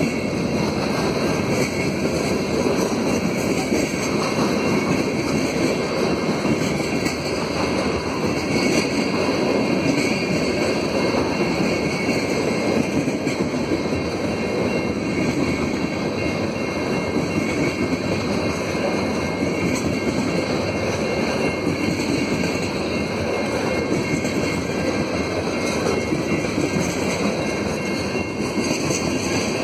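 Freight cars, covered hoppers and tank cars, rolling past close by: the steel wheels on the rails make a steady rolling noise with a light rattle.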